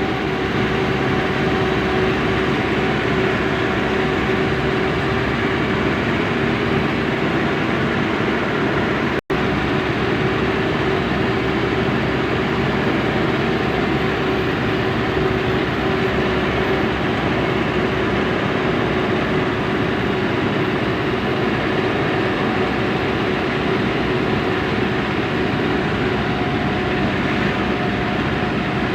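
Truck engine and road noise droning steadily while driving, with a steady low hum running through it. The sound cuts out for an instant about nine seconds in.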